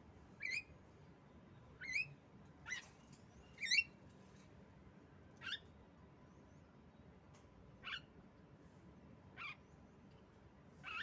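Female Javan myna (jalak kebo) calling: about eight short, squeaky, upward-sweeping notes, spaced one to two seconds apart.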